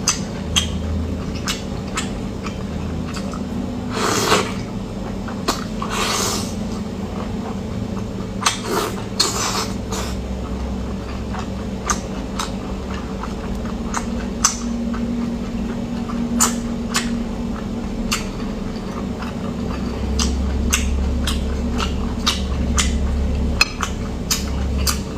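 A person eating close to the microphone: many short, sharp mouth and food clicks, with a few longer, noisier chewing sounds, over a steady low hum.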